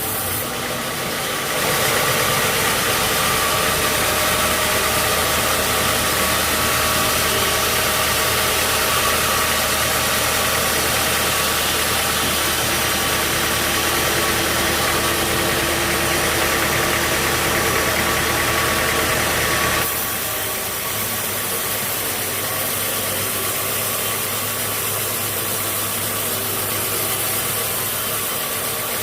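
Sawmill engine and machinery running steadily. From about two seconds in until about twenty seconds it gets louder, with a harsh hiss on top, then settles back to a plainer hum.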